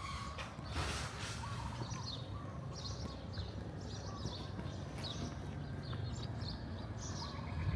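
Small birds chirping in many short, repeated calls over a low, steady background rumble.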